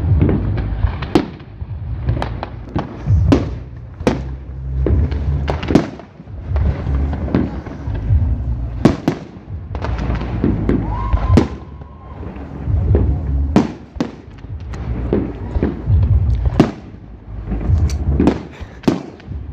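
Fireworks going off: sharp bangs about one a second or faster, mixed with deeper booms.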